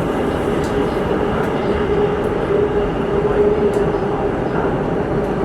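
Singapore MRT Downtown Line train running underground: a steady rumble with a constant hum over it and a few faint ticks.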